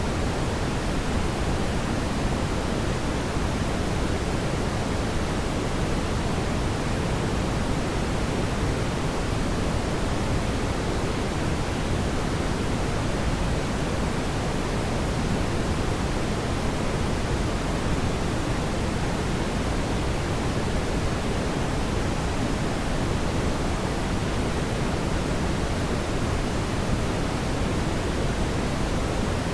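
Fireplace fire's steady, even low rushing hiss, without distinct crackles or pops.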